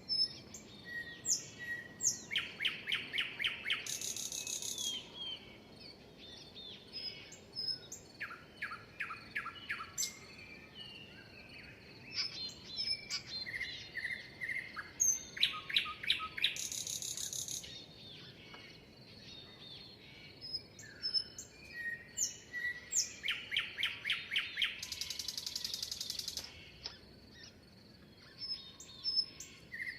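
Songbirds chirping and singing. One song phrase comes three times: a quick run of evenly spaced notes ending in a buzzy, high trill.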